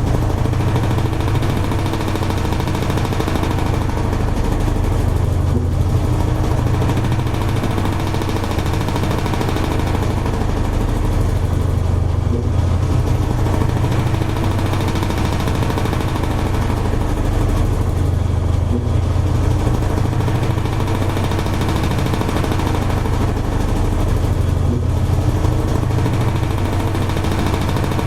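Toshiba AW-42SEE4 fully automatic washing machine running mid-cycle: a steady motor hum with a faint, slow swell and dip about every six seconds.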